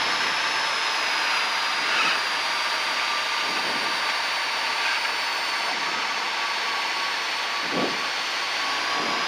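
Piper Lance's six-cylinder Lycoming engine and propeller droning steadily, heard from inside the cabin.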